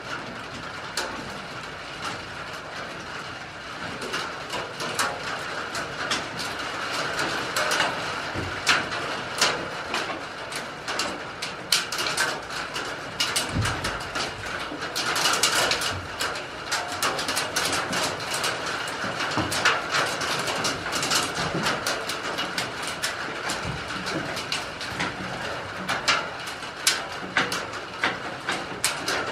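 Heavy rain on the roof of a wooden goat house, heard from inside: a steady patter with many irregular sharp drips and taps, growing a little heavier a few seconds in.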